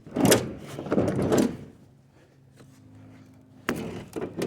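A refrigerator being shoved and slid into place: two rough scraping, sliding noises in the first second and a half, then a sharp knock near the end.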